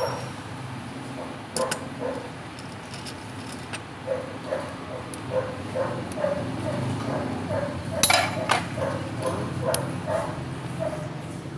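A dog barking in a quick series, about two to three barks a second, with a few sharp metallic clicks and clinks among them.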